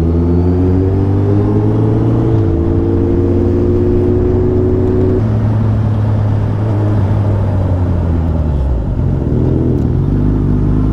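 Suzuki Hayabusa motorcycle's inline-four engine running under way, its pitch climbing slowly for about five seconds, then dropping suddenly and carrying on steady at a lower pitch. Wind rush runs under it.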